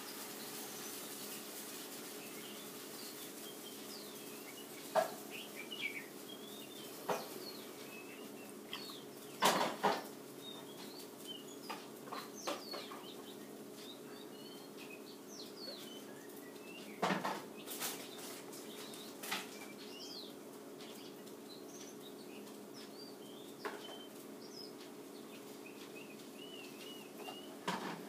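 Short bird chirps scattered throughout, over a steady low hum, with a few sharp knocks and handling sounds from the table.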